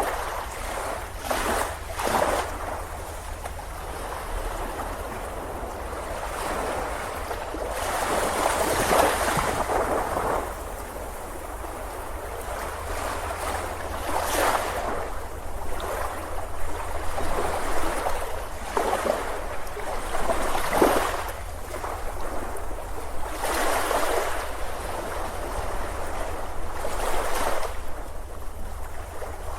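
Ocean surf on a beach: waves breaking and washing in, swelling and fading every few seconds, over a steady low rumble.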